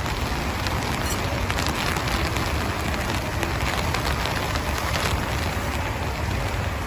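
Heavy rain falling steadily, with many faint ticks of single drops striking and a low rumble of wind underneath.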